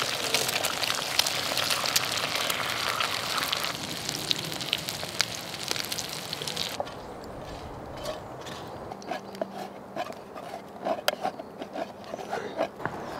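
Bacon, sausages and eggs sizzling and crackling in a cast iron skillet over a wood fire; the sizzle cuts off abruptly about seven seconds in. Scattered light clicks and knocks follow as the food is dished onto plates.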